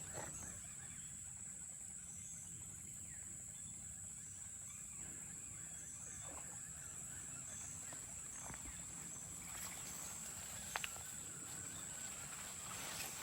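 Faint outdoor ambience with a steady high-pitched drone throughout, and a couple of faint clicks about eleven seconds in.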